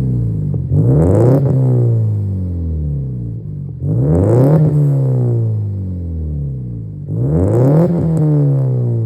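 Exhaust of a Subaru Legacy B4 (BL5) flat-four through a one-off muffler with a 150 mm outlet, being free-revved: three quick blips of the throttle, each rising sharply and then falling slowly back toward idle.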